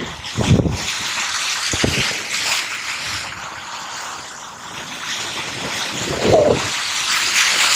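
Steady seaside noise of waves and rain hiss, with wind buffeting the microphone.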